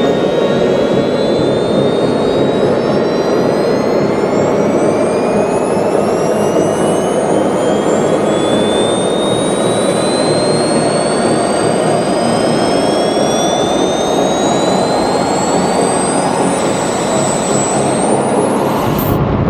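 Gravity jet suit's small gas-turbine engines running at high power: a loud jet roar with several turbine whines climbing steadily in pitch as the engines spool up. Near the end the highest whine sweeps sharply upward and breaks off.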